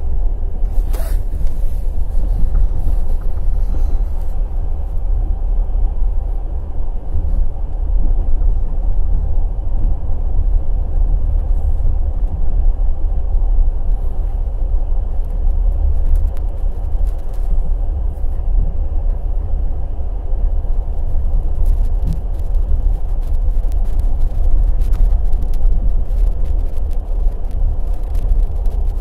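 Passenger express train running at speed: wheels on the rails giving a steady heavy rumble, with scattered sharp clicks and knocks, more of them in the second half.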